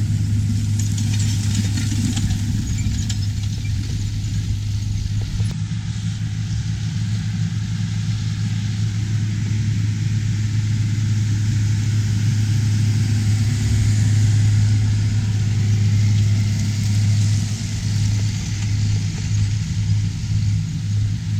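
Large diesel farm machinery running steadily: a constant low engine drone with a wash of mechanical noise above it.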